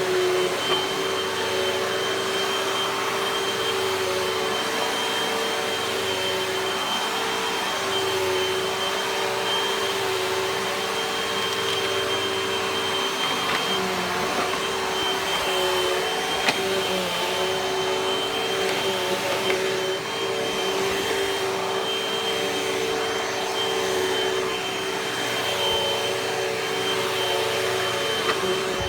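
Hoover upright vacuum cleaner running steadily, its motor giving a constant whine over a rushing hiss, with slight dips in level as it is pushed about.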